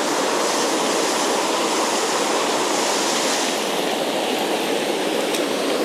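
Mountain stream water rushing steadily over rocks, an even hiss with no breaks.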